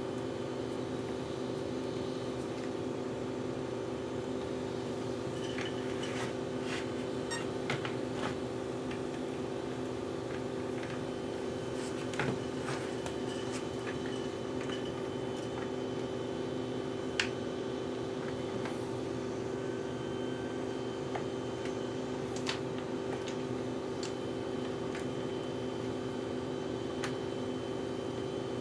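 A steady hum runs throughout, with scattered light clicks and clinks of small tools and parts being handled during hands-on work on an RC car.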